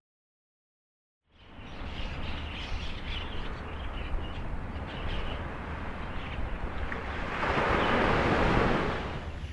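Ocean surf washing on the shore, starting after about a second of silence; a wave breaks and swells louder about eight seconds in, then falls away.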